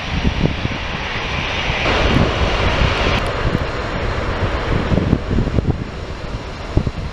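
Wide-body jet airliner's engines roaring as it passes the runway, the roar swelling about two seconds in.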